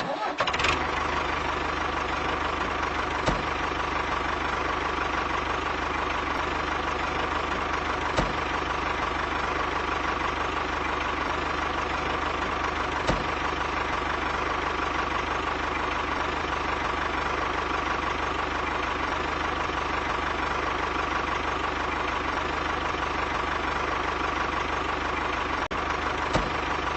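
Tractor engine idling at a steady, even pace, with a few faint clicks.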